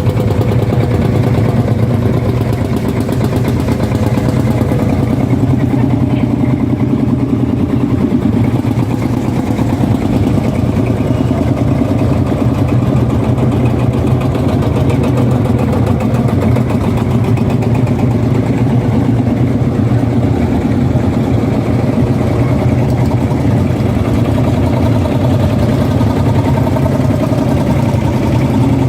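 Tractor engine running steadily at a constant speed, with an even firing beat.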